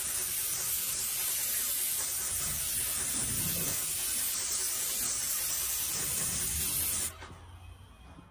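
Paint spraying with a steady hiss, cutting off suddenly about seven seconds in.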